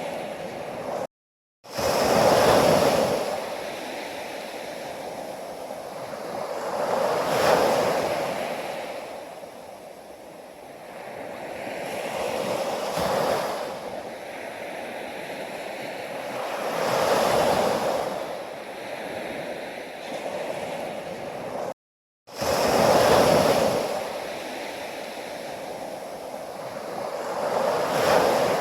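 Ocean waves breaking on a shore, each one swelling to a rushing wash and then fading, about one every five seconds. The sound drops out completely twice for a fraction of a second.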